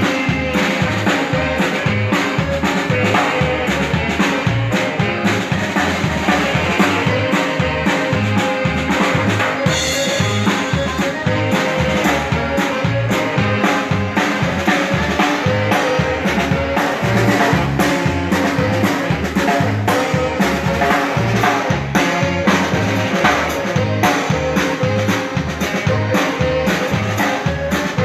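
A live Texas Czech band playing, with a drum kit keeping a steady, even beat under a sustained melody line.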